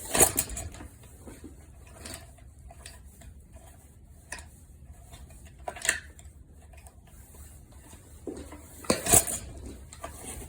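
Scattered metallic clinks and knocks from hands working metal parts and fittings on a small engine that is not running. The loudest knocks come right at the start and about nine seconds in.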